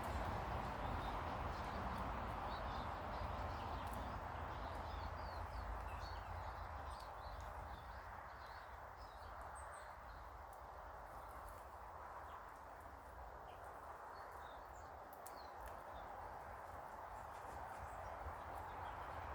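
Small garden birds chirping in short, faint calls, mostly in the first half, over a steady background hiss and low rumble.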